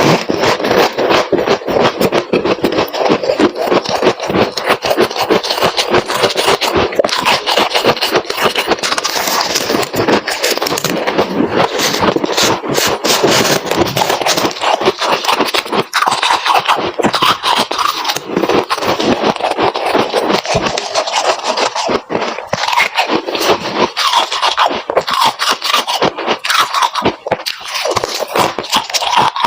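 Freezer frost being chewed, a dense, unbroken run of crisp crunches and scraping crackles.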